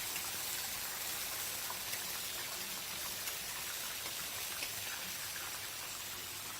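Chicken sizzling in hot cooking oil: a steady hiss with scattered small crackles.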